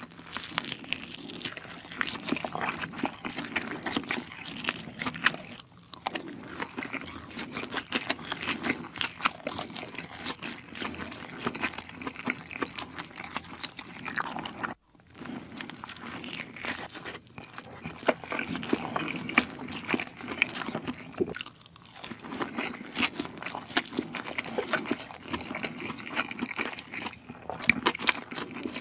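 Close-miked chewing and biting of Korean dumplings, a steady run of quick wet clicks and crackles from the mouth. The sound cuts out abruptly for a moment about halfway through, then the chewing resumes.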